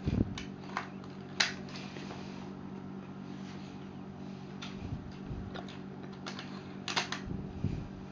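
Hard plastic Lego Technic parts being handled, with scattered sharp clicks and a few dull knocks, the loudest click about a second and a half in and a quick cluster at about seven seconds. A steady low hum runs beneath.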